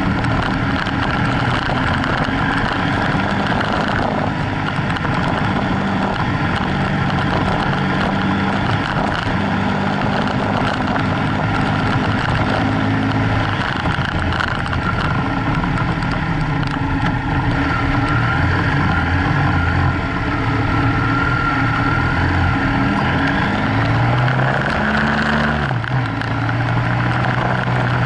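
BMW F800GS parallel-twin engine running while the motorcycle rides a gravel track, its note stepping up and down several times with throttle changes, over steady wind and riding noise.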